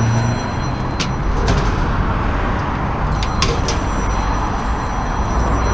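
Vehicle on the move: steady road and engine noise with a low rumble, and a few light clicks or rattles scattered through.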